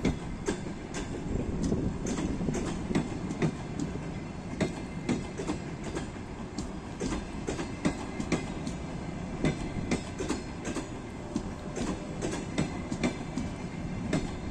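Passenger coaches of a departing express train rolling past, their wheels clacking sharply over rail joints several times a second over a steady low rumble.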